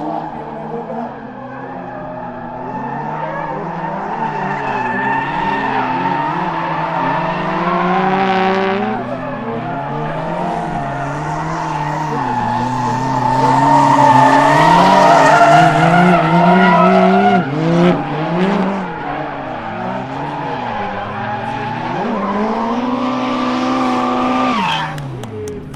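Drift car engine revving hard at the limit, its pitch bouncing up and down with the throttle, over the screech of tyres sliding sideways. It is loudest about halfway through, and near the end the engine note drops away sharply as the car comes off the throttle.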